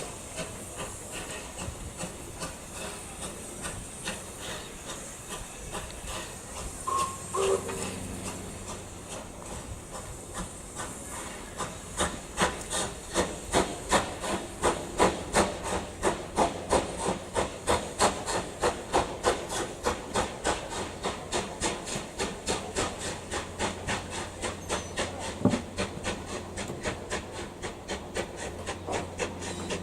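Steam train: a steady hiss of steam, then from about twelve seconds in a quick, even rhythm of sharp beats as the train gets going and runs by.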